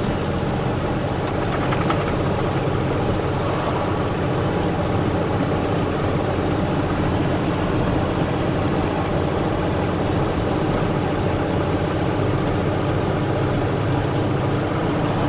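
Steady engine drone and road noise heard from inside a truck cab while driving.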